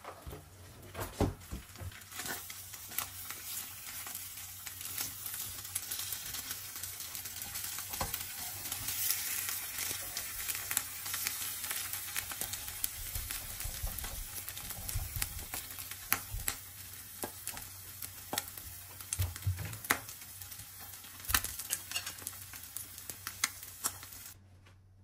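Food sizzling as it fries in a pan, with scattered clicks and taps. The sizzle swells through the middle and cuts off suddenly near the end.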